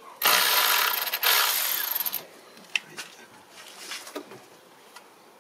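Loud rasping of a tool working on a bracket fastener in the engine bay, lasting about two seconds with a short break in the middle, followed by a few light clicks.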